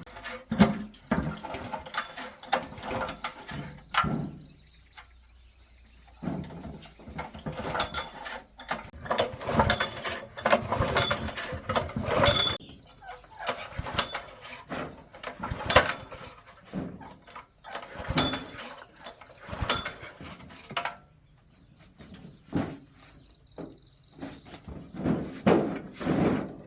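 Irregular clicks, taps and clatter of metal engine parts and hand tools being handled, with short quieter pauses, over the steady chirring of insects.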